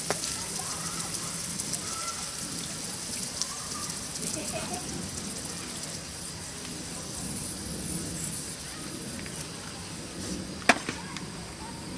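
Campfire burning with a steady crackling hiss and occasional sharp pops, the loudest pop near the end. Faint voices murmur in the background.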